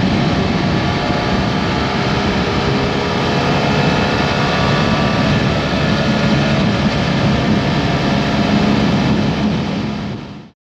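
BMW F800GT's parallel-twin engine running at a steady road speed under heavy wind rush, cutting off abruptly near the end.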